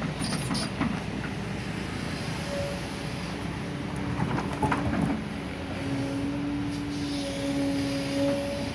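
Kobelco SK200 Super X hydraulic excavator working: a steady engine drone with a few metallic knocks near the start and around five seconds in, and a steady tone that joins about two and a half seconds in and holds.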